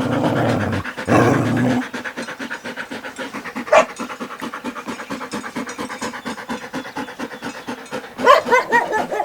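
Dog panting rapidly in a steady, even rhythm, with two louder, longer breaths or huffs in the first two seconds and a short higher-pitched sound near the end.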